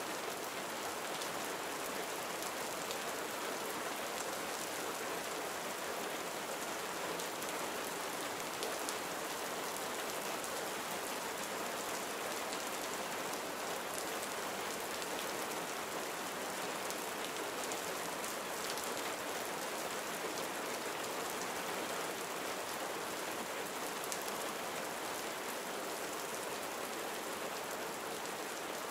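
Steady gentle rain falling on surfaces, an even hiss with faint scattered drop ticks.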